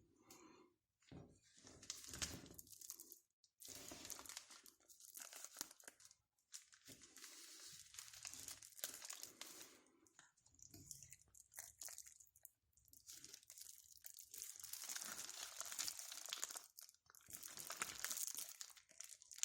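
Faint crinkling and rustling, as of something being handled, in uneven stretches of a second or a few with short breaks between.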